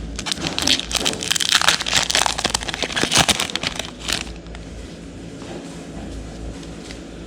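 Crinkling and crackling of a foil booster-pack wrapper being handled and opened, with card handling, dense for about four seconds and then dropping to a faint rustle.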